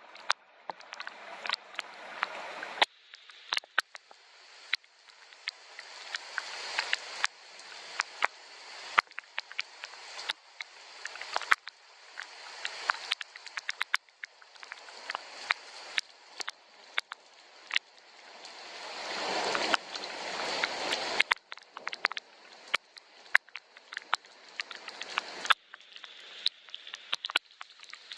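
Soft rain, with many sharp drops ticking close by over a steady hiss. The hiss swells and falls away several times and is fullest about twenty seconds in.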